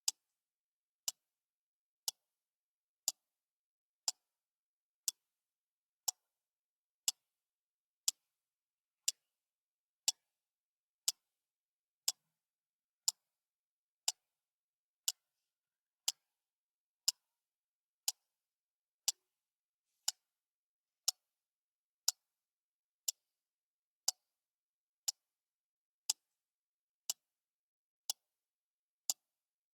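Clock ticking steadily, one sharp tick each second, with silence between ticks.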